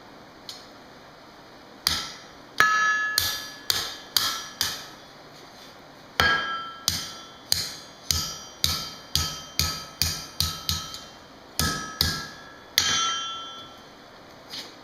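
Hand-hammer blows on hot steel over an anvil while forging a scroll. There are three runs of quick strikes, about two or three a second, with short pauses between them, and each blow leaves a ringing tone from the anvil.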